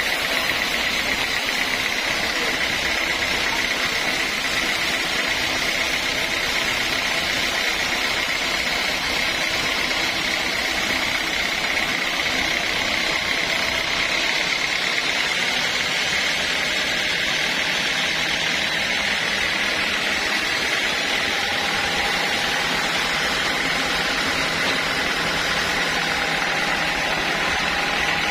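Sawmill machinery running steadily, a continuous mechanical drone with a constant high whine; a second, lower tone joins about three-quarters of the way through.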